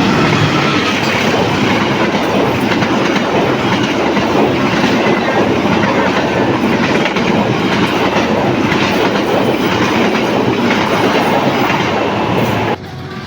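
A train passing close by, its wheels clattering steadily over the rail joints. The sound cuts off suddenly near the end.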